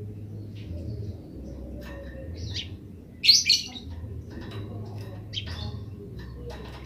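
Eurasian tree sparrows giving their chattering 'grece' chirps: a loud cluster of rapid chirps about three seconds in, with fainter scattered chirps before and after, over a low steady hum.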